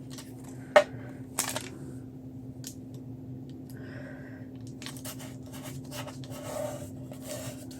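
Paper and crafting supplies handled on a work table: a sharp click about a second in and a few lighter taps, then paper rustling and scraping in the second half, over a steady low hum.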